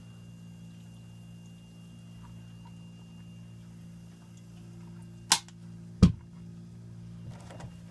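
Mini fridge running with a steady low hum, broken by two sharp knocks about five and six seconds in, less than a second apart.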